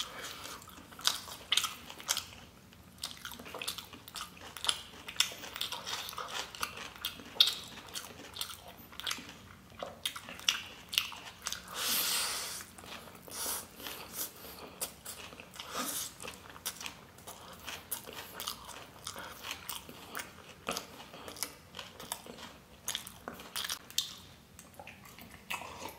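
Close-miked chewing and mouth sounds of a person eating spicy chow mein noodles with vegetables by hand: wet smacking and clicking throughout. About halfway through there is a longer hiss-like rush as a big handful of noodles goes into the mouth.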